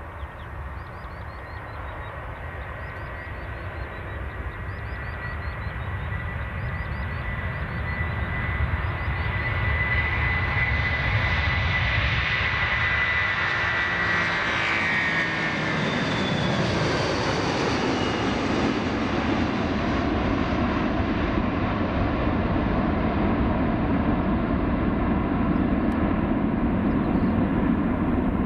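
Boeing 777 jet airliner passing low overhead. The engine sound builds for about ten seconds, a high fan whine drops in pitch as it goes by, and then a steady jet roar carries on.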